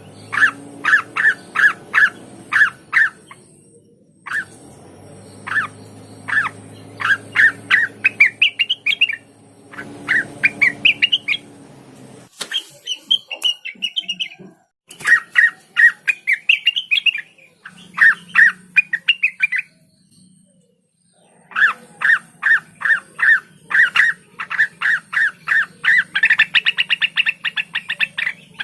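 Cucak wilis leafbird singing: fast runs of sharp repeated notes, about four or five a second, broken by quicker rising warbled phrases, with a couple of short pauses.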